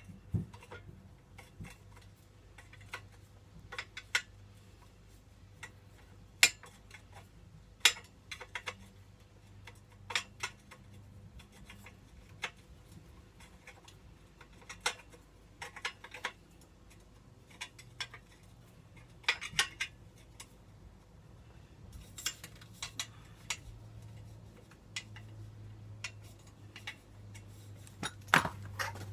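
Irregular sharp metallic clinks and taps of hand tools on bolts and exhaust parts as the header bolts of a Honda CBR600F2's exhaust are undone, over a low steady hum.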